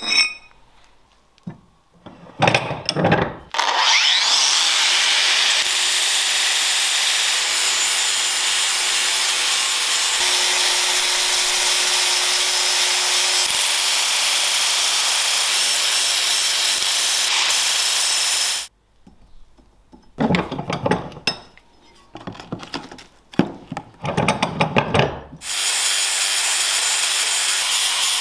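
A power tool spins up with a rising whine and runs steadily for about fifteen seconds, then stops abruptly. A few seconds of separate rubbing or scraping strokes follow, and then the tool runs steadily again.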